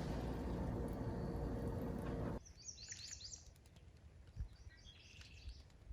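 A steady rushing noise cuts off abruptly about two seconds in. Two short bouts of high bird chirps follow against quiet outdoor background.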